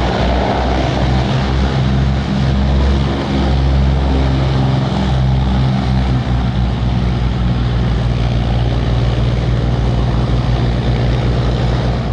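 Propeller drone of a de Havilland DHC-4 Caribou's twin Pratt & Whitney R-2000 radial engines in flight, a steady loud low hum with a rushing noise over it.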